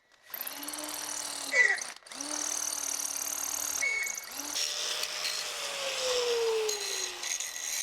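Handheld electric power tool working metal, run in three bursts over a harsh steady hiss. Its motor whirs up at the start of each burst and winds down at the end, with a long falling motor tone in the last and longest run.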